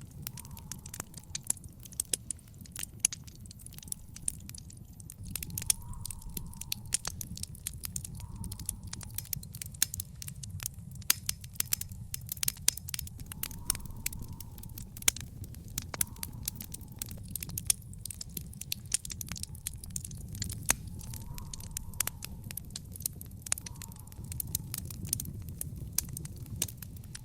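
Wood fire in an outdoor fire pit crackling, with frequent sharp pops and snaps over a low steady rumble of burning.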